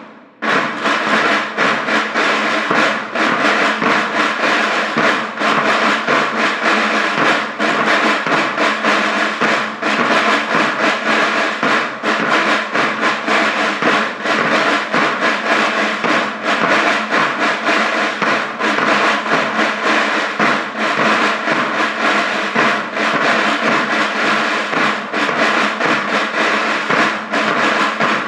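A school band playing: snare and bass drums beat a busy, rolling rhythm under steady held notes from the brass and wind instruments. The band comes back in loud a moment after a short break.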